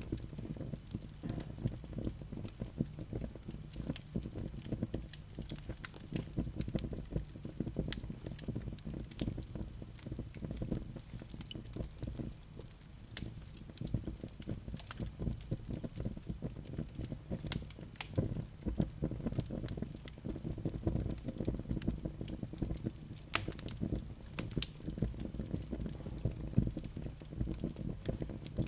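Wood fire crackling in a fireplace: a constant run of sharp, irregular pops and snaps over the low, steady rumble of the flames.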